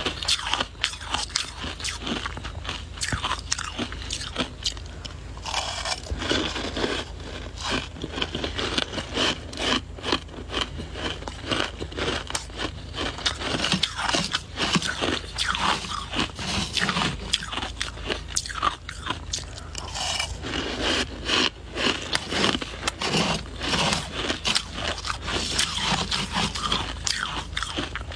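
Close-miked biting and chewing of soft white ice, a dense, irregular run of crisp crunches and crackles as the frozen flakes are crushed between the teeth.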